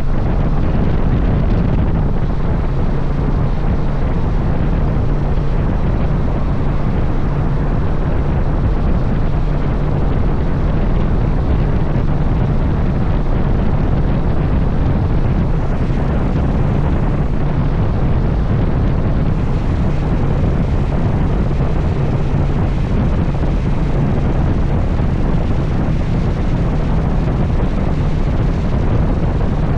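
Steady wind rush buffeting an action camera's microphone while riding a Honda XL750 Transalp, with a constant low hum from its parallel-twin engine at cruising speed underneath.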